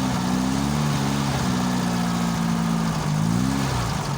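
Cold car engine without a choke, kept alive by working the throttle: the revs drop about a second in, hold steady, then rise and fall once more near the end. The uneven running is that of an engine still cold that needs throttle to keep from stalling.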